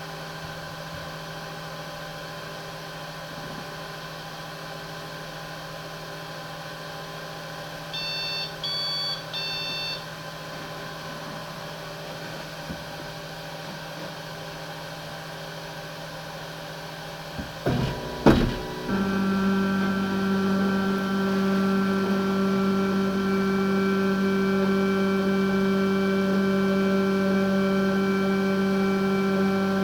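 3D printer running with a steady mechanical hum. It plays a short beeping tune of several pitches about eight seconds in. A couple of clunks come near eighteen seconds, then a louder, steady hum and whine of its motors and fans from about nineteen seconds on.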